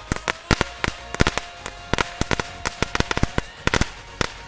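A knetterlint, a strip of tiny category 1 firecrackers, going off as a rapid, irregular string of sharp cracks, several a second.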